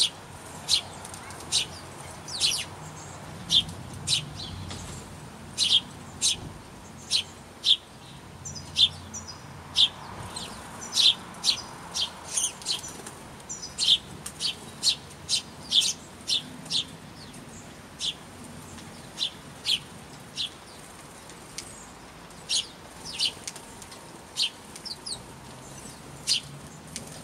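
Small birds chirping: short, sharp calls, irregular and about one or two a second, with a few quick warbled notes mixed in.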